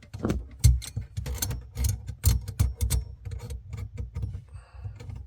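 Plumbing fittings and parts being handled and fitted by hand: a run of irregular clicks, taps and light knocks of metal and plastic pieces.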